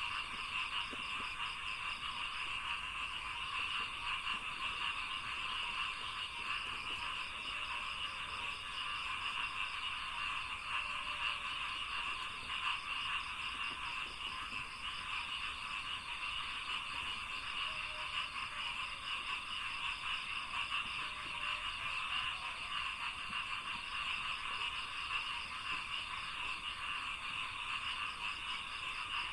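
Dense, unbroken chorus of many frogs calling in rice paddies, their rapid pulsing croaks blending into one continuous sound, with a thin steady high-pitched tone above it.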